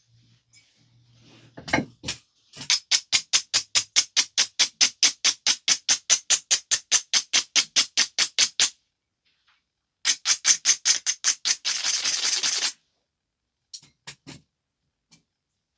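Rapid, even back-and-forth scraping of an abrader stone along the edge of a flint biface, about five strokes a second, which grinds the edge to prepare striking platforms. A sharp knock comes just before it. After a short pause there is another run of strokes ending in a steady rasp, and then a few light clicks.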